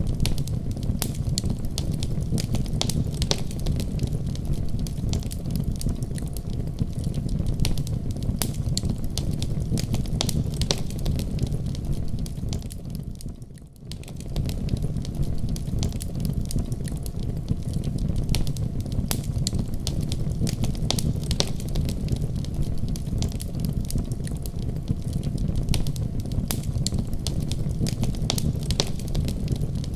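Wood fire burning in a fireplace: a steady low rumble of flames with a continuous scatter of sharp crackles and pops. The sound fades down briefly a little before halfway through and comes straight back.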